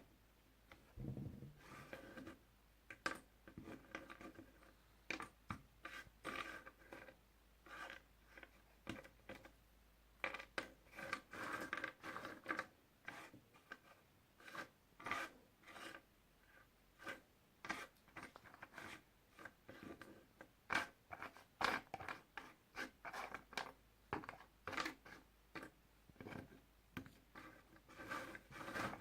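Puzzle pieces being handled: many irregular light clicks and taps, with some rubbing and scraping, as pieces are picked up and set down.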